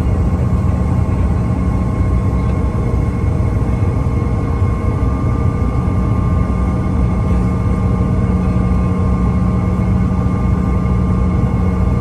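Airliner cabin noise after landing: a steady low rumble from the jet engines and air systems with a steady whine on top, heard from inside the passenger cabin.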